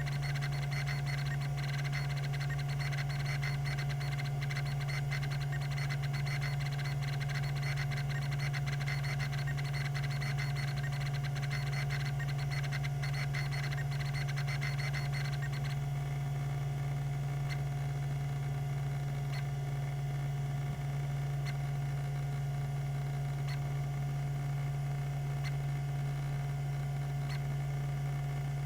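Tandon TM362 20 MB MFM hard drive spinning at 3600 RPM with a steady hum, its rack-and-pinion stepper actuator chattering through rapid seeks for about the first half, then giving a single tick about every two seconds.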